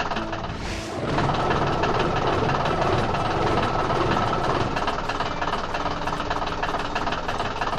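Heavy construction-vehicle engine running steadily with a fast knocking rumble, settling in about a second in.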